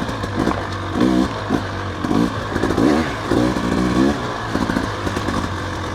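Dirt bike engine revving up and down in quick, repeated throttle blips over a steady low rumble.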